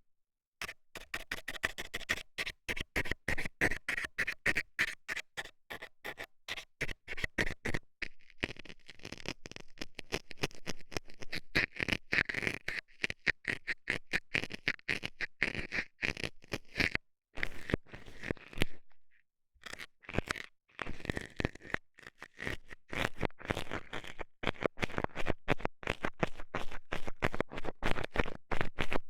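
Metal dental scaler scratching and poking rapidly at an ear, in quick repeated short strokes, with brief pauses about eight seconds in and again a little past halfway.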